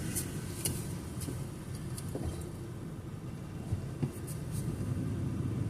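Inside a moving car: a steady low rumble of engine and road noise, with a few faint light clicks in the first couple of seconds.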